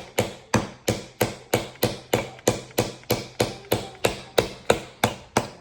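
Hammer driving a nail into a wooden board with a steady run of blows, about three a second.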